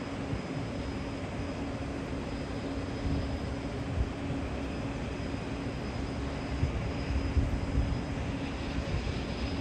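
De Havilland DHC-3 Otter floatplane's engine running with a steady drone, over a low, uneven rumble that grows gustier in the second half.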